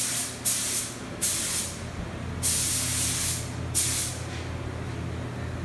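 Paint spray gun hissing in four short bursts of about half a second to a second each, spraying coats onto the motorcycle frame parts. A steady low hum runs underneath.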